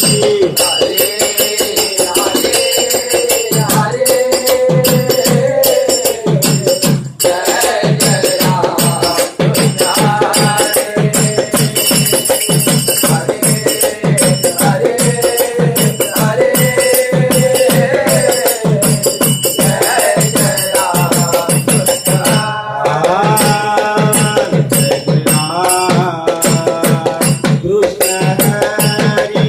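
Devotional bhajan music from a group: fast, steady drum strokes under jingling metal percussion and a wavering melody line.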